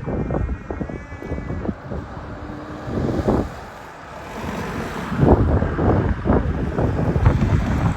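Wind buffeting the microphone in uneven gusts, a low rumble that eases off about four seconds in and comes back louder for the second half.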